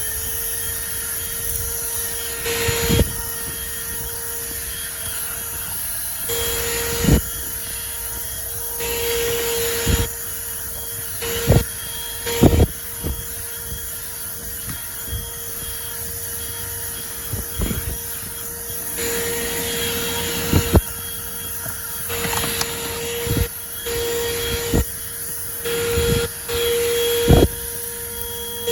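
WORX handheld car vacuum running with a steady motor whine, its level rising in stretches of a few seconds, broken by a dozen or so sharp clicks and knocks.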